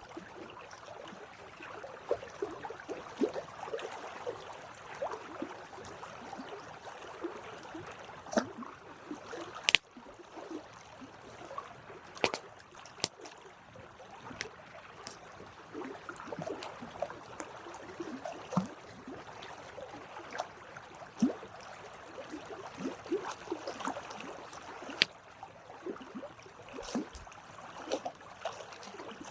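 Campfire burning: a steady hiss with frequent small crackles and scattered sharp pops of wood, the loudest pop about ten seconds in.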